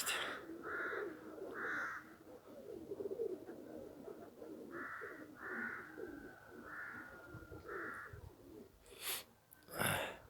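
Pigeons cooing low, with about six short calls from another bird spread through, and two sharp knocks near the end.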